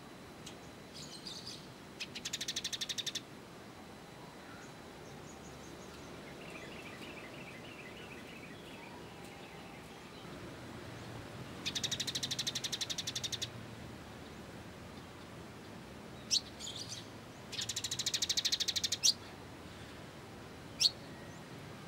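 Small songbirds calling: three fast, buzzy high-pitched trills, each one to two seconds long, with a softer chattering phrase between them and several sharp single chirps near the end.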